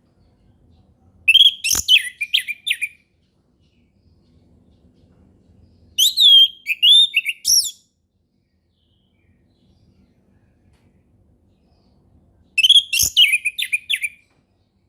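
Orange-headed thrush (anis merah) singing in the flowing 'ngeplong' style: three short phrases of quick, varied whistled notes, each about a second and a half long and several seconds apart.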